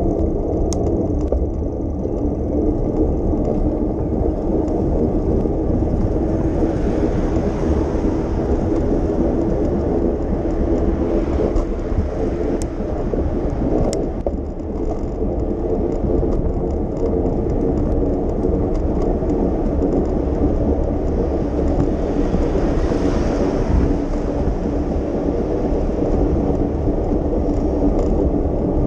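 Steady low rumble of a moving bicycle's tyres on the street, with road noise and wind on the microphone. A few broader swells of noise come and go, and there are a couple of sharp ticks near the middle.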